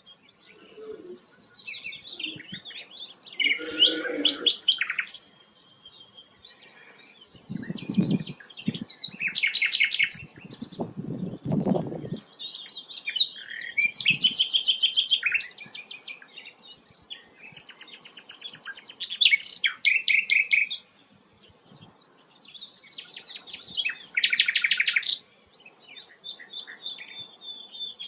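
Sikatan londo flycatcher singing: repeated short phrases of rapid, high chirping notes and trills, each a second or two long with brief pauses between them. Two low muffled bumps come about eight and eleven seconds in.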